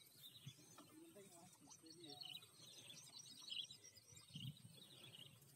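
Faint birds chirping now and then over a quiet outdoor background, with distant voices murmuring faintly about two seconds in.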